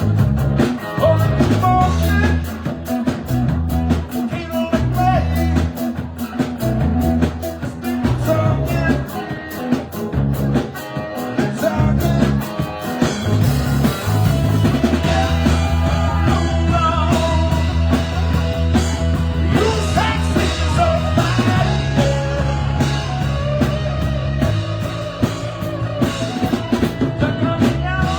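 Live band playing rock music, with guitar, drum kit and a singing voice.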